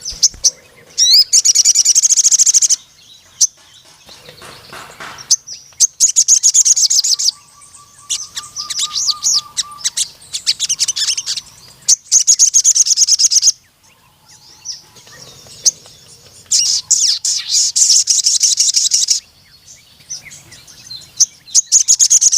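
Sogon (brown-throated sunbird) singing in repeated bouts of very rapid, high, chattering trills, each lasting a second or two, with short gaps and a few lower notes between them.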